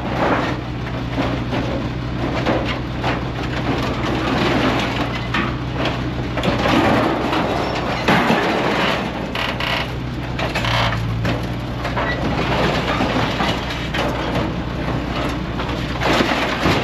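A heavy machine's engine running steadily under repeated crunching, cracking and scraping of metal as a scrap-yard claw grips and moves an old truck body.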